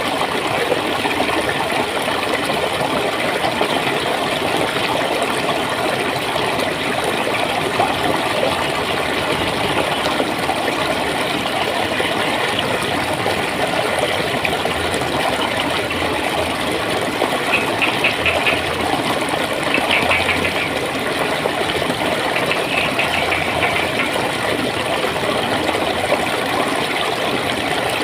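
Clear water flowing and gurgling steadily over stones, a continuous even rush. About two-thirds of the way through come three short bursts of quick, high-pitched ticking.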